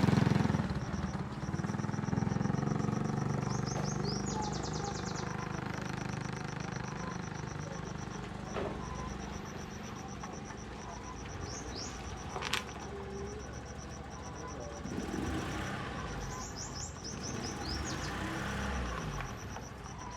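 Bird chirps in short trills over a low steady rumble, with a couple of sharp clicks.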